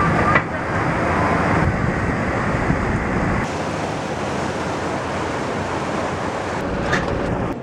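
Wind rushing over the microphone, a steady loud noise that changes abruptly a few times.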